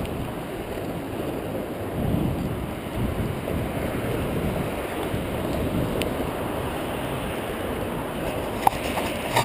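Wind buffeting the microphone as a steady low rumble, with a couple of small sharp clicks near the end.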